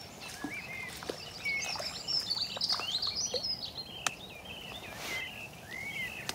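Songbird singing a rapid, varied run of chirps and warbles, busiest in the middle, with a few sharp clicks.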